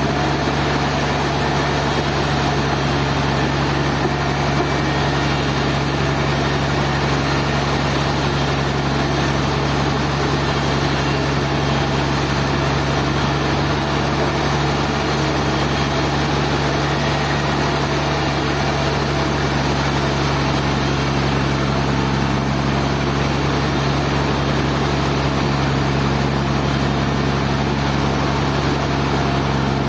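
Sawmill machinery running steadily, a constant engine-like hum with a strong low tone that holds unchanged throughout.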